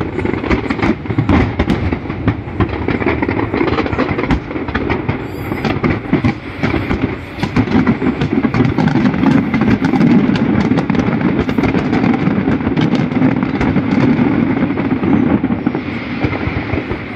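Fireworks display in full barrage: many sharp cracks and bangs in quick succession over a continuous low rumble.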